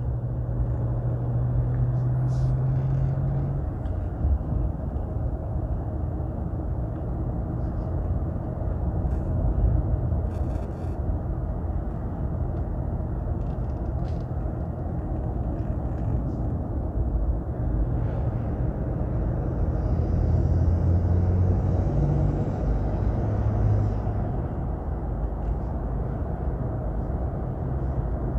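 2020 Ram EcoDiesel's 3.0-litre V6 turbodiesel, fitted with an aftermarket turbo inlet pipe, driving on the road, heard from inside the cab. A steady engine and road rumble, with the engine note shifting a few times.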